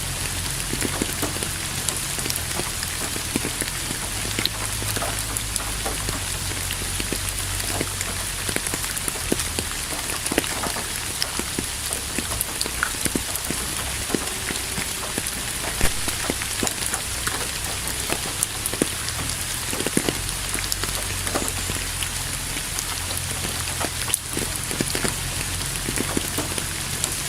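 Steady rain falling, with many separate drops heard striking a surface throughout.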